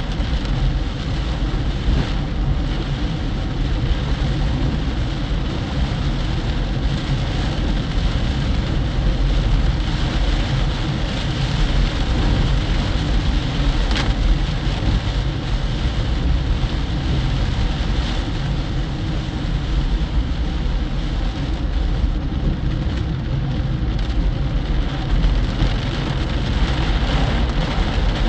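Car driving on a highway in a storm: steady road noise mixed with the hiss of heavy rain.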